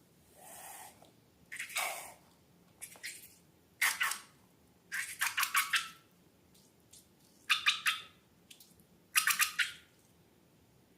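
Wet squelching of slime being squeezed and mixed, in six short bursts. Some bursts are rapid runs of sticky, crackly strokes, the loudest about four seconds in and again near the end.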